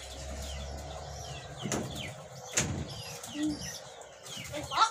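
Birds chirping in the background, many short falling chirps. Two sharp knocks come a little under two seconds in and again about a second later.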